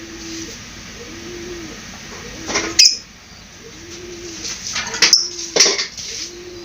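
Lovebirds giving short, shrill, high-pitched calls three times, the loudest about a third of the way in. Under them, a low cooing call repeats about once a second.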